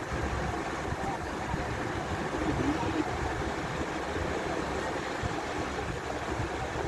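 Steady low rumble of a passenger train standing at a station, with no distinct events.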